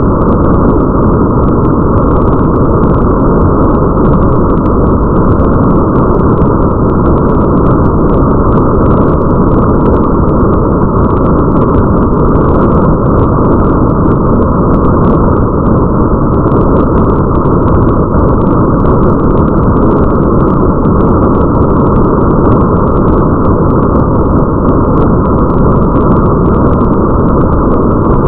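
Steady, dense rain-and-rumble ambience noise, heavily muffled with almost no treble, like rain heard through a station window over a deep hum. It does not change.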